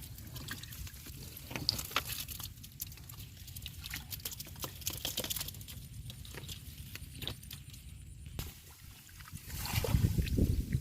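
Shallow water sloshing and trickling, as bamboo shrimp traps are handled in knee-deep water, with many small clicks. A louder, low splashing swell comes near the end.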